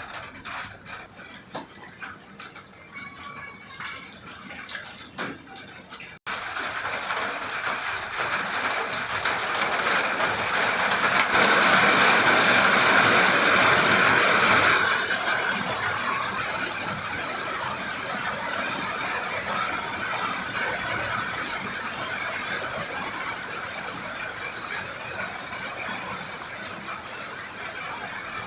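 Scattered crackling and ticks for about six seconds, then after a sudden cut a dense sizzle of chicken deep-frying in hot oil that swells for several seconds and slowly eases off.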